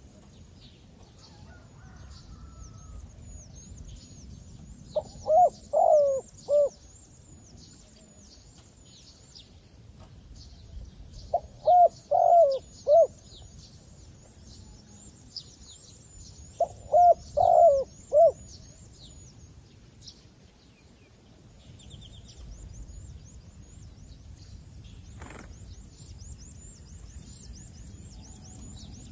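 Zebra dove calling three times, each call a quick run of four or five short cooing notes, over continual faint high-pitched chirping.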